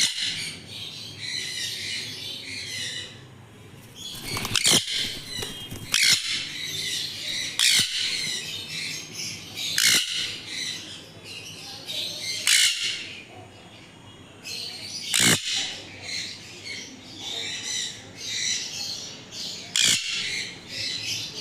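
Baby conures chirping continuously, with loud sharp squawks breaking in about every two seconds.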